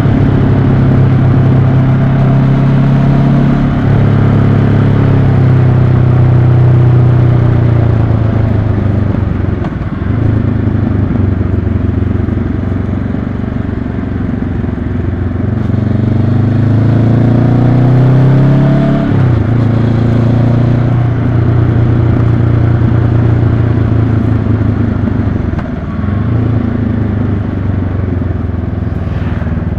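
A 2022 Honda CB500X's parallel-twin engine runs under way. Its pitch holds steady for long stretches and shifts a few times; past the middle it rises for a few seconds, then drops sharply, as at a gear change.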